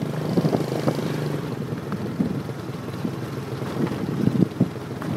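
Motorbike engine running while riding, a steady low hum with wind rumbling on the microphone and a few small knocks.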